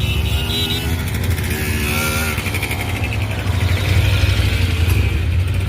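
Motorcycle engines running with a steady deep rumble. A pitched tone sounds over them during the first two seconds or so.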